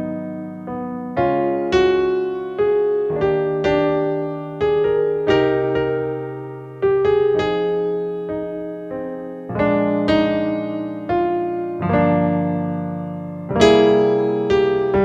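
Solo piano music: slow chords struck one after another, each ringing and fading, played by an amateur.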